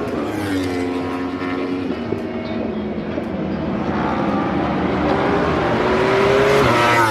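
Racing motorcycle engines at full noise passing on the track. The pitch drops as they brake and shift down, climbs steadily through the middle as they accelerate, then drops sharply near the end.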